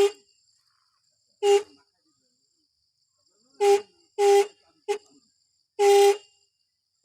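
Motorcycle horn honked in about six short, uneven beeps as a small child presses the button again and again. Each beep is one flat, steady tone; the beeps are brief taps lasting up to about half a second.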